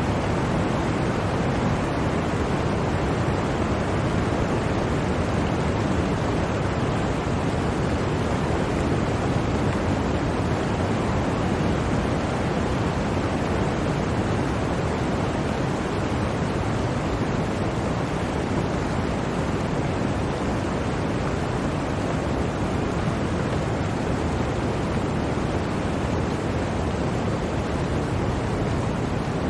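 Steady blizzard wind: a dense, even rush of noise with no gusts, breaks or separate sounds.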